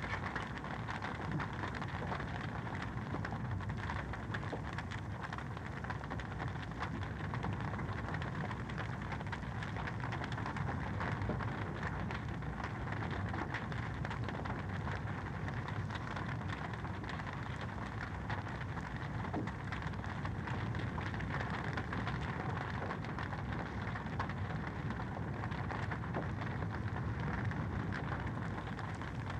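Wood fire crackling steadily in a fireplace, a dense run of small pops and snaps over a soft rushing hiss.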